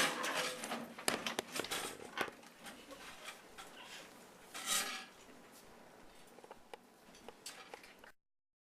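Rustling, scraping and knocking of people dropping under desks for a duck, cover and hold earthquake drill, busiest at the start and thinning out, with one louder scrape about halfway through. The sound cuts to dead silence near the end.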